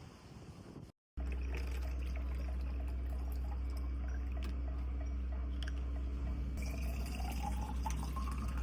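Water running from a tap or spring into a bottle, with a ringing tone that rises as the bottle fills near the end.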